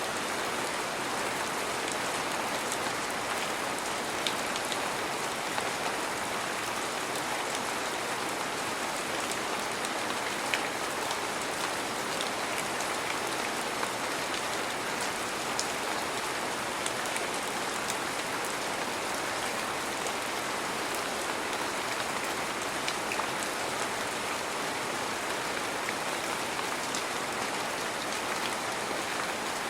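Heavy rain falling steadily, a continuous hiss with scattered sharp drop ticks.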